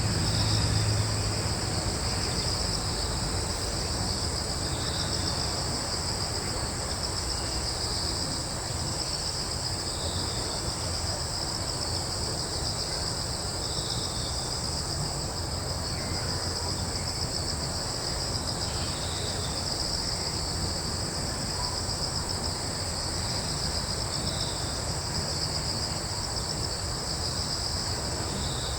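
Crickets and other insects trilling without pause in two high-pitched bands, with a short faint call recurring every four to five seconds. A steady low rumble of breeze lies underneath.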